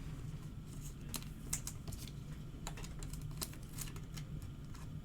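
Light, irregular clicking and tapping, several small clicks a second at uneven spacing, over a low steady hum.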